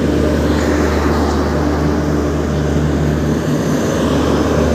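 Indian Railways WAP-7 electric locomotive and its LHB coaches running past at very close range: a loud, steady rumble of the train with a constant low hum.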